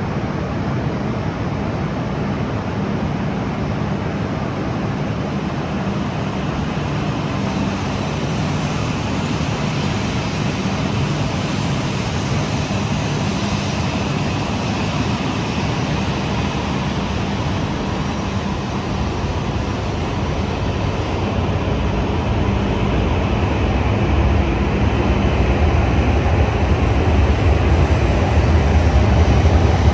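Coupled E5 and E6 series Shinkansen train at the station: a steady hum and rush of noise, with a deep rumble growing louder over the last several seconds as the train pulls away.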